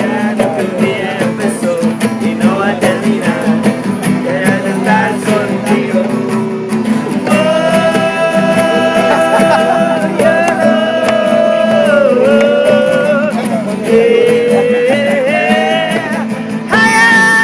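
People singing together to a strummed guitar. The singing moves from shorter phrases to long held notes from about seven seconds in, with another long note starting near the end.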